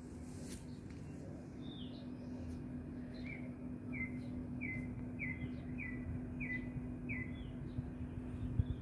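A bird calling in the morning: a couple of higher chirps, then one short note repeated seven times at an even pace, about one and a half notes a second. A steady low hum runs underneath.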